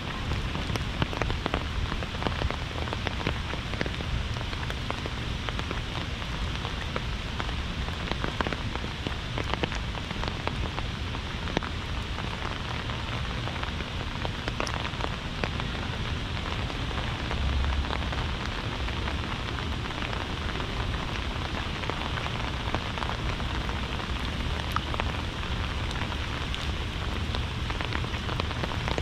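Heavy rain falling steadily, a dense patter of many separate drops with a low rumble underneath.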